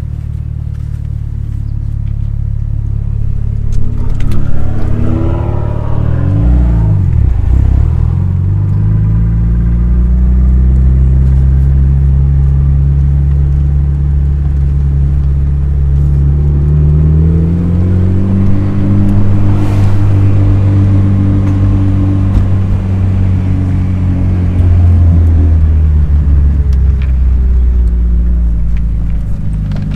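Nissan Skyline's engine pulling the car along, its pitch rising under acceleration several times and then settling to a steady cruise.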